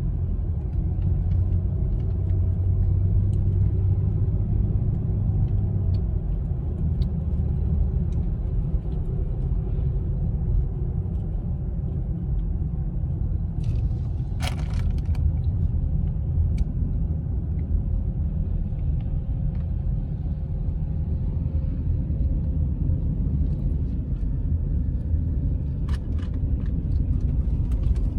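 Steady low road and engine rumble of a car being driven, heard from inside the cabin, with a couple of brief clicks, one about halfway through and one near the end.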